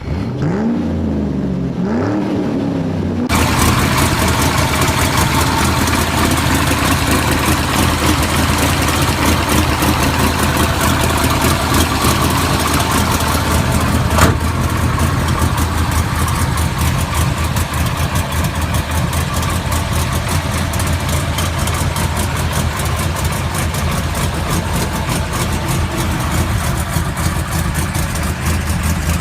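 A muscle-car V8 engine is being started: a short whining crank for about three seconds, then it catches suddenly and runs loud and steady with a dense, pulsing low rumble. There is one sharp click about halfway through.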